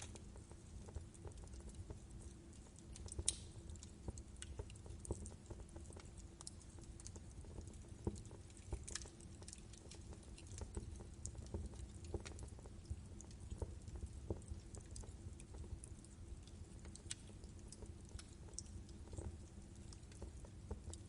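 Wood logs burning in a fireplace, crackling with irregular sharp pops and snaps over a low rumble. A couple of louder pops come about three and eight seconds in.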